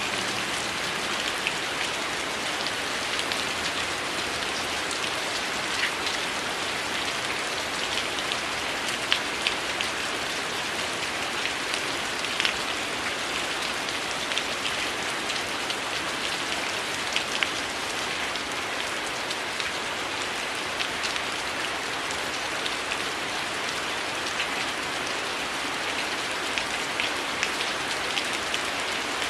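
Steady heavy rain hiss with scattered sharp crackles from a wood fire, a few pops standing out above the rain.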